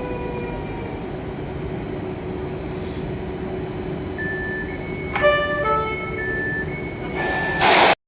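Electric train running, its motor whine falling in pitch at the very start, then a steady rolling noise. In the second half a short run of electronic tones sounds, stepping between a few pitches, and a loud hiss comes just before a sudden cut.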